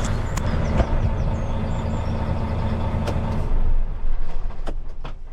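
A steady low mechanical hum that cuts off suddenly about three and a half seconds in, followed by a few sharp knocks and clicks.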